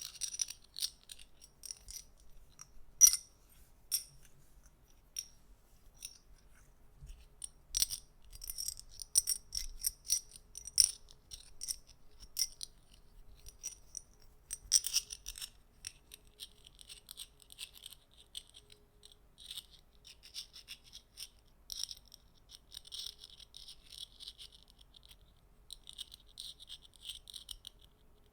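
Small metal objects clicked and rattled together by hand: irregular sharp, light clicks, thickening into denser clattering runs about halfway through and again near the end.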